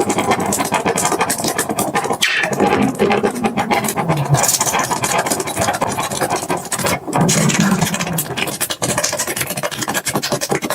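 Red-hot metal ball sizzling and crackling in hair gel: a dense, continuous run of crackles and pops as the gel boils against it. A low wavering tone rises out of it twice, once a couple of seconds in and again past the middle.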